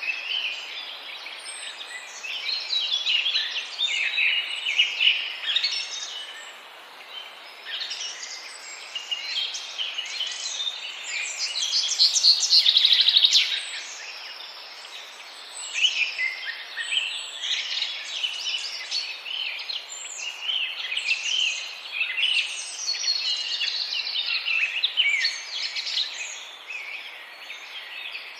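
Many small birds chirping and calling over one another in a dense, continuous chatter. About twelve seconds in, a louder, rapid buzzing rattle stands out for about a second and a half.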